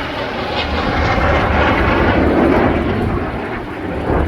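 Aircraft engine noise of a plane flying past, growing louder to a peak about two seconds in and then fading.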